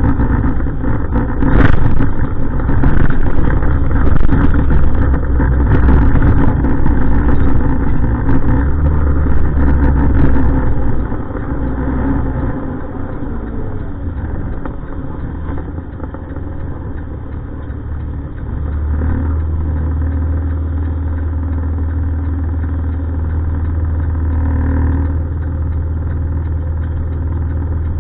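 Heavy diesel truck engine running. It is loud with scattered knocks and rattles for about the first ten seconds, then settles quieter into a steady low drone.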